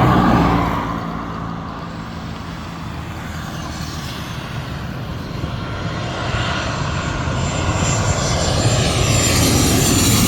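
Jet airliner engines passing low overhead on landing approach. The rumble is loud at first and dies down over about two seconds, then builds again over the last few seconds with a rising high whine as an aircraft comes in.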